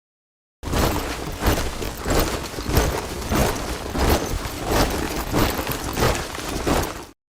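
A column of soldiers marching in step, boots stamping together in a steady rhythm about every two-thirds of a second over a crunchy shuffle. It starts after a brief silence and cuts off suddenly near the end.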